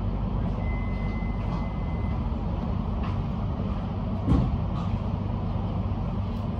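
Steady low hum and rumble of a Metro X'Trapolis electric train standing at a platform, heard from inside the carriage. A thin steady tone sounds from about half a second in for about a second and a half, and there is a single thump about four seconds in.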